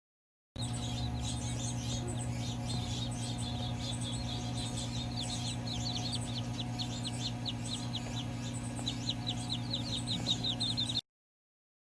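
Baby birds chirping in rapid runs of short, high, falling chirps, denser and louder near the end, over a steady low electrical hum. The sound starts abruptly and cuts off suddenly.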